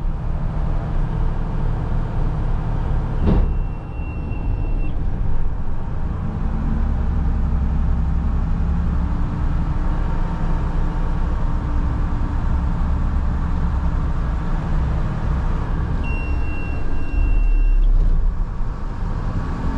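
Front-load garbage truck's engine running hard under hydraulic load as the packer compacts an overfull hopper, with a sharp knock about three seconds in. A high steady beep sounds briefly twice, around four seconds and near the end.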